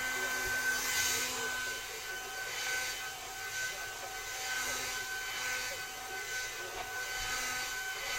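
Hair dryer blowing steadily: a constant rush of air with a thin steady whine, swelling and fading about once a second as it is moved.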